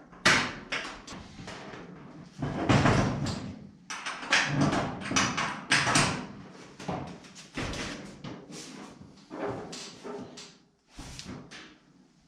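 Irregular knocks and clanks of metalwork on a steel body panel, some short and sharp and a few lasting up to about a second.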